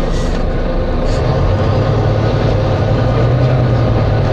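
Volvo B9TL double-decker bus's 9.4-litre six-cylinder diesel engine running, heard from on board, its low note growing stronger about a second in as it pulls harder. Two brief hissy bursts sound near the start and about a second in.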